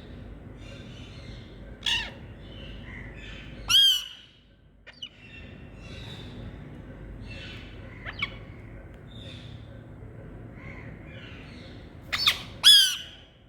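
Indian green parrots squawking: several short, loud calls about two and four seconds in, a softer one near the middle and a loud pair near the end, over continuous softer chattering calls.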